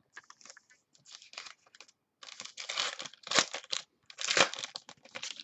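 Trading card packaging crinkling and tearing as cards are unwrapped and handled, in several short rustling bursts, the loudest about halfway through and near the end.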